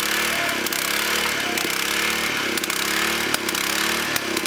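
Small petrol engine of a portable rail-weld profile grinder running under load. Its pitch sags and recovers about once a second as the grinding wheel bites on the weld, over a steady grinding hiss.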